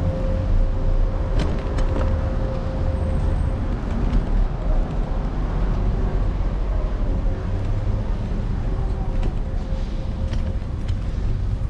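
Ride noise from a moving electric scooter with the camera on its handlebars: a steady low rumble of road and wind with street traffic. A thin steady whine runs through it, and a few sharp clicks or knocks come about a second and a half in, around four seconds, and near the end.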